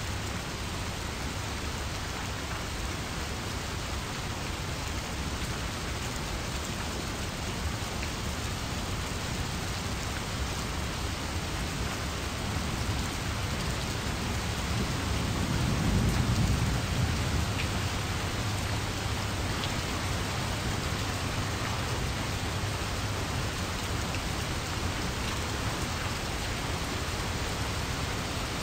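Steady rain, with a low rumble of thunder swelling up and fading about halfway through.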